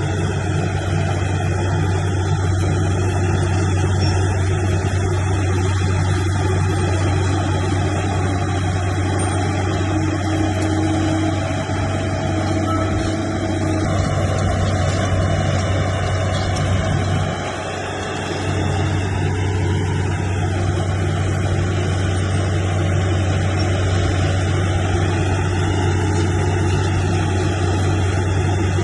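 Heavy diesel engine of earthmoving machinery running steadily, with a brief drop in level about two-thirds of the way through.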